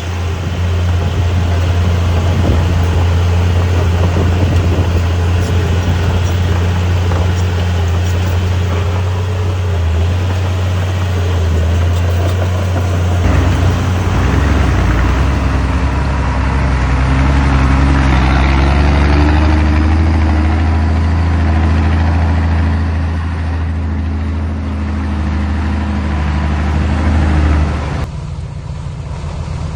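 Heavy diesel engine of a dump truck running loud and steady, with a broad rushing noise over it. About halfway through, the engine note shifts lower and a higher droning tone joins it. Near the end the rushing noise cuts off suddenly and the sound drops to a quieter engine drone.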